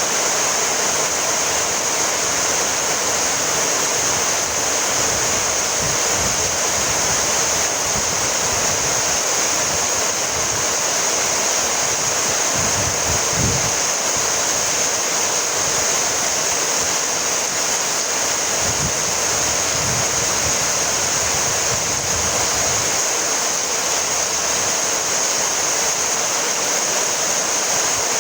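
Steady rainfall, an even hiss with no single drips standing out, and a few brief low rumbles in the middle.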